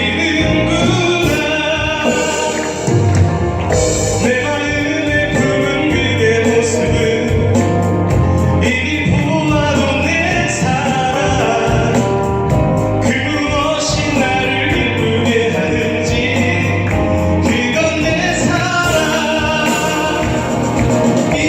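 Fusion pansori love song sung over a musical backing track, the voice carrying long bending phrases.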